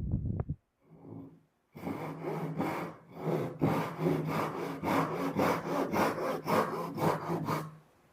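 Hand saw cutting through a cedar board in quick, even strokes, about three a second, starting about two seconds in and stopping shortly before the end.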